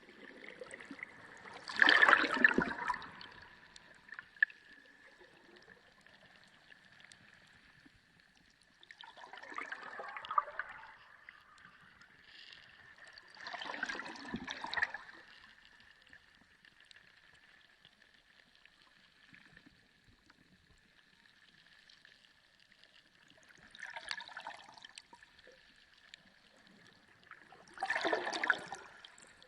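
Sea water heard underwater: five separate surges of moving water, each lasting about a second, the loudest about two seconds in, with quieter stretches between them. A faint steady high tone runs underneath.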